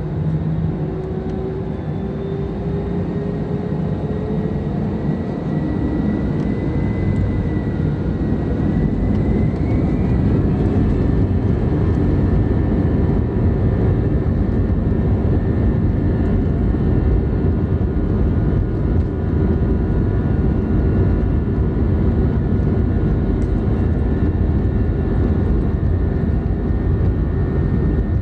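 Airbus A320 jet engines heard from inside the cabin at the start of the takeoff roll. The engines spool up, their whine rising in pitch over the first ten seconds or so, then settle into a loud steady roar with a deep rumble.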